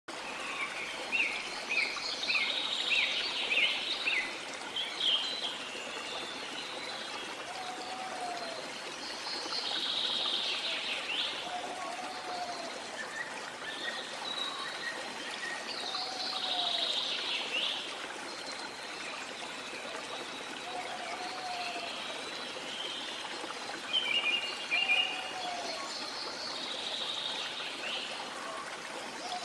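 A waterfall's steady rushing water with several jungle birds calling over it: a quick run of chirps at the start, a louder sweeping call about every six seconds, a low short call repeating every few seconds, and a burst of chirps near the end.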